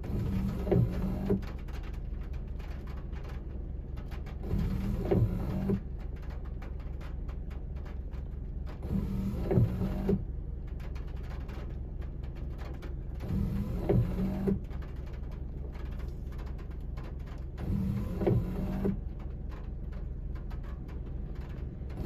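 A small electric motor running briefly in a regular cycle, one short run of a bit over a second about every four and a half seconds, over a steady low rumble.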